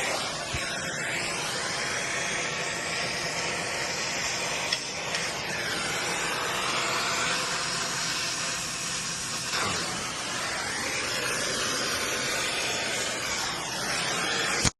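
Brazing torch flame hissing steadily while a refrigerant leak on a frozen-beverage machine is brazed shut. The hiss shifts a little in tone as it goes and cuts off suddenly at the end.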